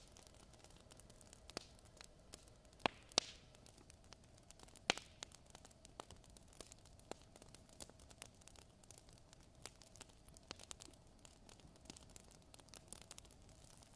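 Fire crackling in a fireplace: scattered sharp pops and ticks, a few louder ones in the first third, over a faint hiss and a faint steady hum.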